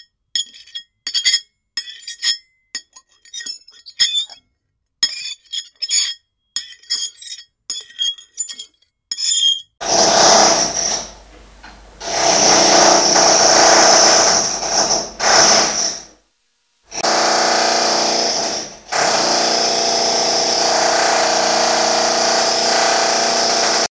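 A fork scraping and screeching on a plate in a quick series of short, shrill strokes. About ten seconds in it gives way to a loud, continuous power-tool noise, a rotary hammer drilling with a high whine, which stops briefly twice.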